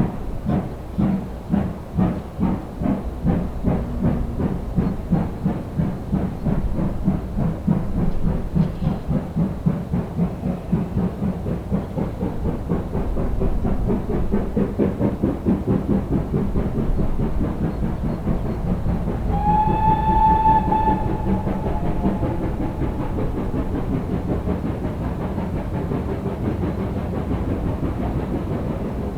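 Steam locomotive pulling away, its exhaust beats quickening as it gathers speed. About two-thirds through, one short steam whistle blast.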